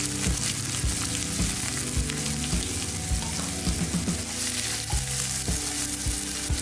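Crushed shallots sizzling steadily in hot coconut oil in a pan, with scattered low knocks and a wooden spatula stirring them near the end.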